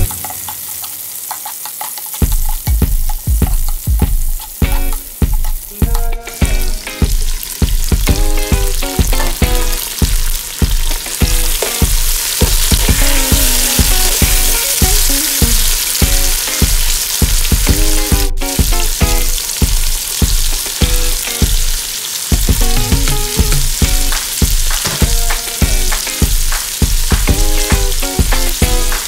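Onions, garlic and tomato sautéing in hot oil in a wok, a steady sizzle with a metal spoon stirring, the sizzle getting louder about a third of the way in. Background music with a steady beat plays over it.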